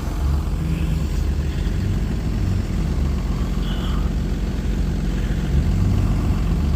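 A vehicle engine idling steadily, a low rumble with no change in speed.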